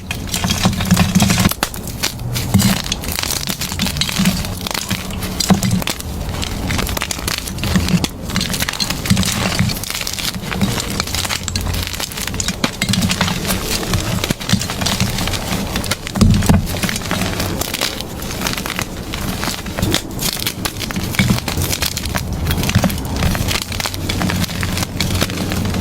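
Blocks of gym chalk being crushed and crumbled by hand: continuous crunchy crackling, with many small snaps and soft low thumps as the pieces break and press together.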